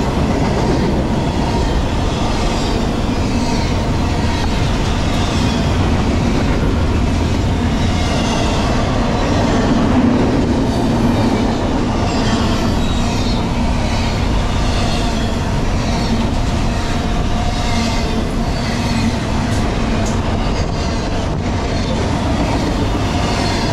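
A freight train's double-stack intermodal container cars rolling past at speed: steel wheels rumbling and clattering over the rail, with steady ringing tones above the rumble. It holds a constant, loud level, swelling a little about ten seconds in.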